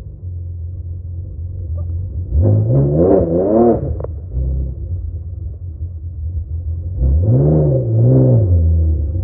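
Dodge 350 diesel truck engine running with a low, steady note, its revs rising and falling in quick pulses: three times a little over two seconds in, cutting off abruptly, then twice more near the end.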